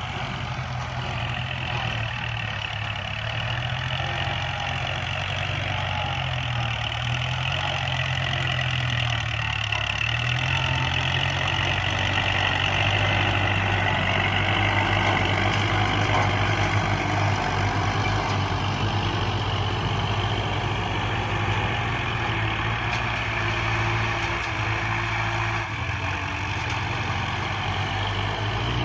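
Kubota farm tractor diesel engine running steadily while working, pushing soil, with a dense mechanical rattle and whine above the engine note.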